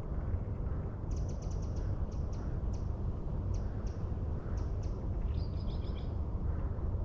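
Small birds chirping in short, quick high notes, with a brief run of pitched calls about five seconds in, over a steady low rumble of wind.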